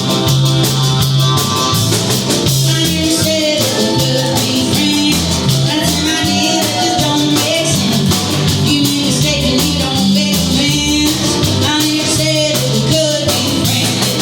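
Live band playing a rock song: drum kit keeping a steady beat, guitars and bass, with a wavering melody line over them.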